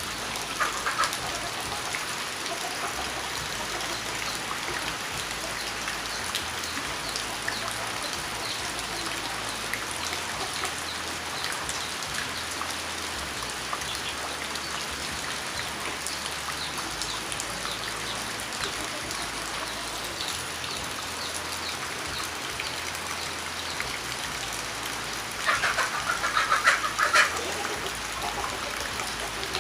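Steady patter of water falling in one spot, like rain, with many small drops ticking through it. A louder, busier spell of sound about two seconds long comes near the end.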